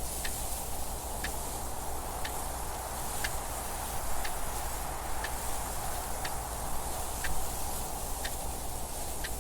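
A clock ticking steadily about once a second over a continuous rushing wind noise.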